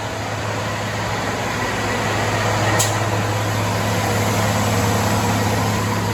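Cat C15 diesel engine in a Kenworth W900 running steadily on a chassis dyno with a strong low drone, getting slightly louder across the stretch, and a single sharp tick about halfway through.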